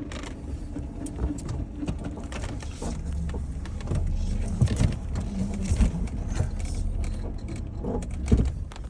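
Car engine running with the transmission in reverse while the vehicle won't move, getting louder about four seconds in, with scattered knocks and clicks. Reverse has been lost, which the owners suspect is a failing automatic transmission.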